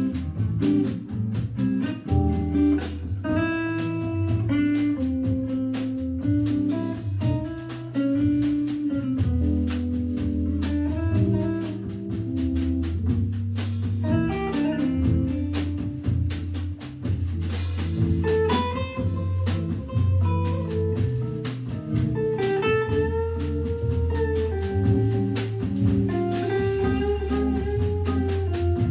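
Organ trio playing jazz: Hammond B3 organ through a Leslie speaker, jazz guitar and drum kit, with a walking bass line under melodic lines and steady cymbal and drum strokes. Long held notes come in during the second half.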